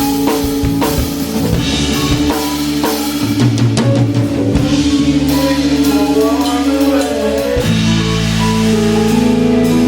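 Live rock band playing an instrumental passage, heard close to the drum kit: kick and snare hits in the first few seconds, then held notes from the other instruments with some sliding pitches.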